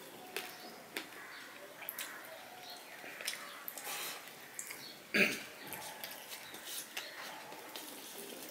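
Close-up eating sounds: wet chewing and lip smacks as rice and fish curry are eaten by hand, with many short clicks and one louder mouth sound about five seconds in.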